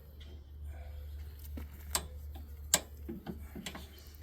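Scattered sharp metal clicks and taps from pins and fittings being worked on a tractor's three-point hitch, the loudest about two and three-quarter seconds in, over a steady low hum.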